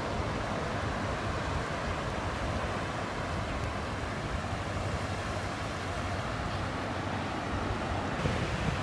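Steady rushing noise of ocean surf and sea wind, even and unbroken.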